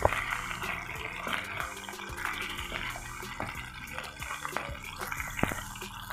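Parboiled beef pieces sizzling in a little oil in a nonstick frying pan, with a silicone spatula knocking and scraping against the pan, sharpest right at the start. Soft background music plays underneath.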